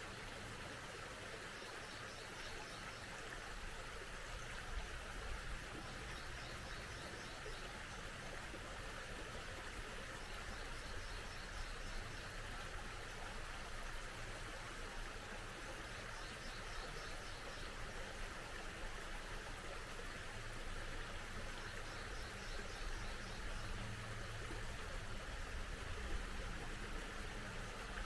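Small mountain stream running steadily, with a bird singing a short phrase that repeats every few seconds.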